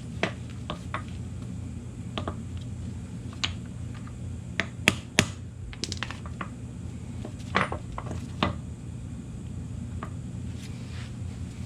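Irregular light metallic clinks and taps of hand tools and driveshaft U-joint parts being handled, over a steady low hum. The loudest clinks fall near the middle.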